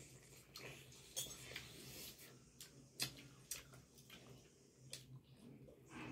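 Faint eating sounds from a mukbang of chicken lollipops: scattered short clicks and smacks, about half a dozen, over a faint steady hum.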